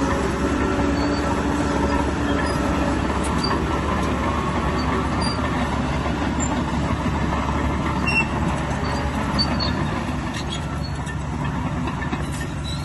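Bulldozer's diesel engine running steadily, easing off slightly near the end.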